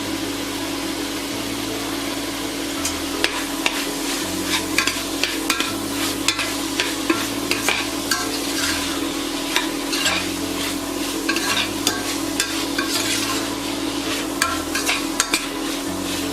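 Chicken and spinach sizzling in a pot, stirred with a spoon that scrapes and clicks against the pot from about three seconds in, over a steady low hum.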